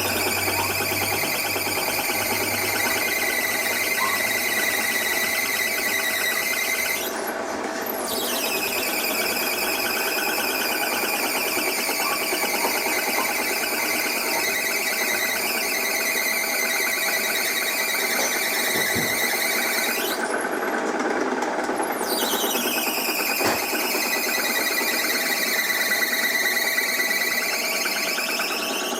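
A machine running with a steady high-pitched squealing whine over a dense, even mechanical sound. It drops out briefly twice, and after each break the whine comes back and slowly shifts in pitch, falling and then rising again.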